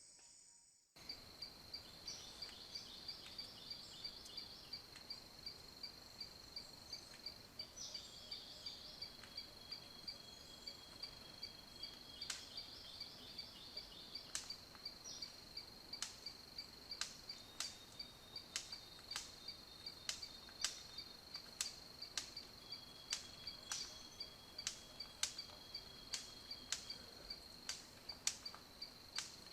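Insects trilling: a steady, high, rapidly pulsing chirr that starts about a second in, with sharp clicks repeating every half second to a second.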